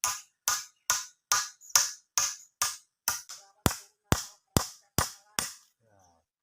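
A steady series of sharp knocks, a little over two a second, stopping abruptly shortly before the end.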